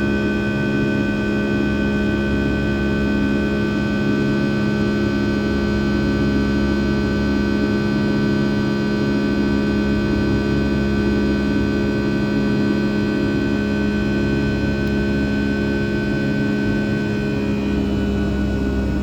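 Boeing 757-200's Rolls-Royce RB211-535E4 turbofan engines running steadily at high power, heard from inside the cabin: a constant drone with several steady tones over a low rumble.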